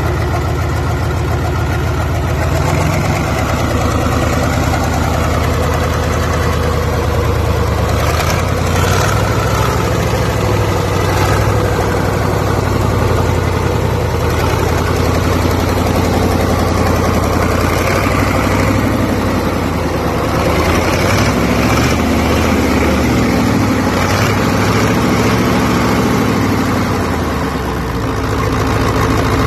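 Mercedes-Benz OM442A V8 diesel engine running at idle, its speed shifting slightly a few times, with a brief dip near the end.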